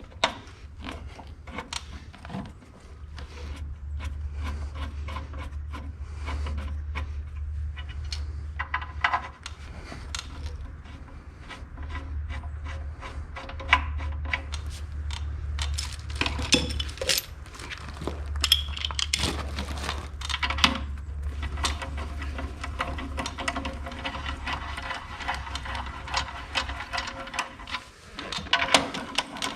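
Bolts and hand tools clinking and scraping against metal as the bolts are fitted into a clutch housing, with many short irregular clicks and knocks. A low hum runs underneath, dropping out briefly a few times and fading out near the end.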